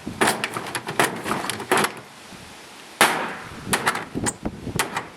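Hammer blows smashing a dishwasher apart: a quick run of bangs and clatter, a short pause, then a loud strike about three seconds in followed by more hits.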